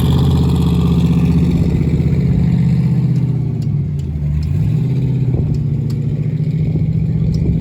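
LSX V8 engine of a drag car idling loud and steady, its level dipping slightly about halfway through before settling back.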